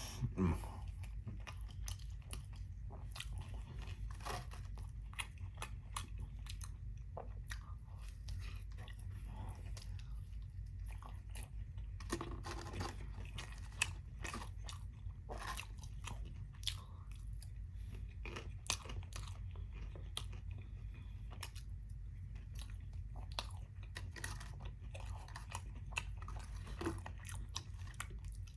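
Close-up chewing with irregular crisp crunches and bites of breaded fried chicken chunks, over a steady low hum.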